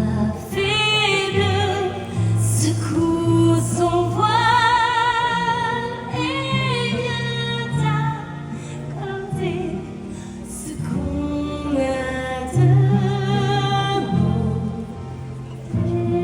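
A singer holding long notes with vibrato over a slow musical accompaniment, the voice rising and falling in phrases.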